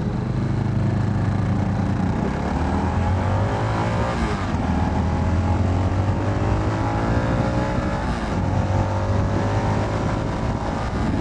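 CFMoto 300NK's single-cylinder engine under way, with wind rushing over the helmet. The engine note climbs in pitch and drops about four seconds and about eight seconds in, as the bike accelerates and shifts up.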